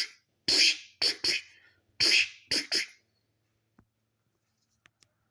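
Mouth-made digging sound effects: a run of about six short hissing 'tsh' bursts in the first three seconds, a person imitating tools working the stone. After that it is quiet but for a few faint clicks.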